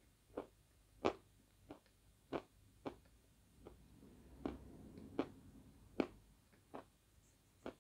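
Close-up crunching of natural chalk chunks (Svetogorye chalk) being chewed, one sharp crunch about every 0.7 seconds.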